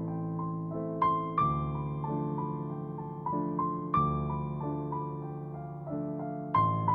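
Soft background piano music: gentle arpeggiated notes over sustained chords, with a new chord struck every few seconds and left to fade.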